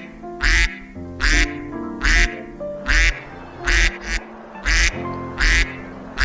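Duck quacking over and over, about one quack every 0.8 seconds, over light background music.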